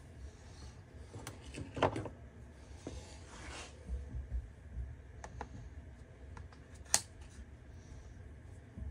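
Scattered small clicks and taps of hand tools and trimmer-head parts being handled, with a brief scrape a few seconds in and one sharp click near the end.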